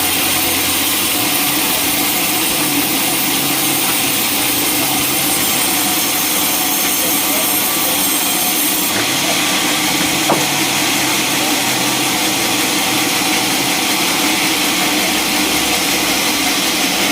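Sawmill saw cutting through a log: a steady, loud hissing whine that changes character about nine seconds in, with a single click shortly after.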